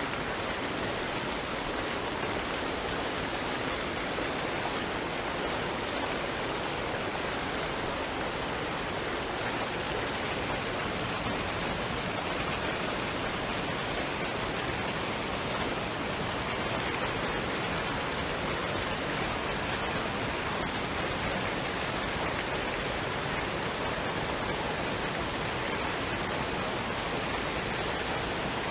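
Waterfall and stream water rushing in a steady, even roar of noise.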